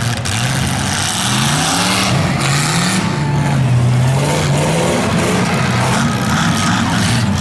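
Demolition derby car engine revving loudly, its pitch climbing and dropping several times.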